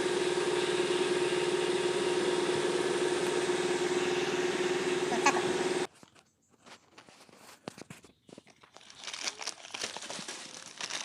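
A steady mechanical hum holding one constant tone stops abruptly about six seconds in. It is followed by quieter scattered clicks and crinkling.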